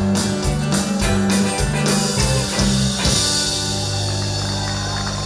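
Live country band with electric guitar, bass and drums playing the closing bars of a song, then striking a final chord about three seconds in and holding it with a cymbal crash ringing out.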